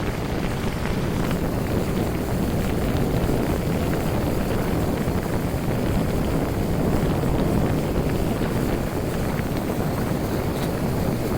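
Small motorboat under way at speed: a steady rush of engine, hull and water, with wind buffeting the microphone.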